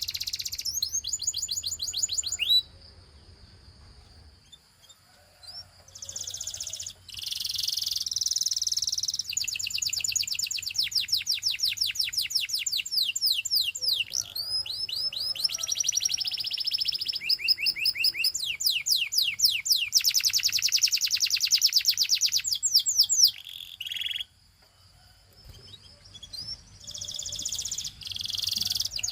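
Canary singing a long song of rapid trills made of fast repeated high notes. The song changes from one trill to the next at different speeds, with two short pauses, about three seconds in and again near twenty-four seconds in.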